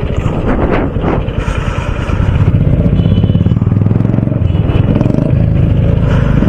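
Royal Enfield Bullet single-cylinder motorcycle engine running while riding, a steady low pulsing that grows louder about two seconds in.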